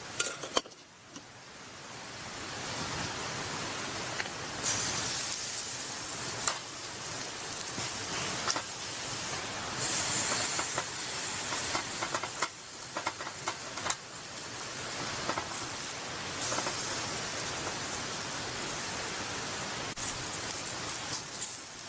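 Beef offal (horumon) sizzling on a charcoal grill: a steady hiss, with louder surges of sizzling about five and ten seconds in. A few light clicks come near the start.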